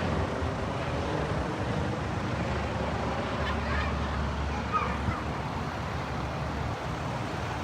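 Steady low rumble of vehicle noise with a rushing, wind-like hiss.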